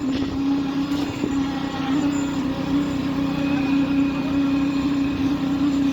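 Heavy diesel engine of a concrete truck running steadily at constant speed, a continuous drone.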